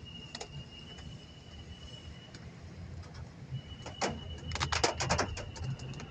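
Steady low rumble of a car cabin on the move, with a thin steady high tone over it. About four seconds in comes a quick cluster of sharp clicks and taps lasting just over a second.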